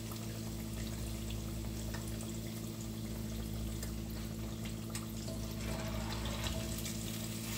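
Breaded fish pieces deep-frying in hot oil in a cast-iron pot: a steady sizzle with many small crackles, over a steady low hum.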